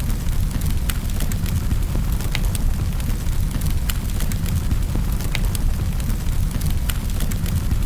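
Fireplace fire burning with a steady low rumble and irregular sharp crackles and pops from the burning wood, several a second.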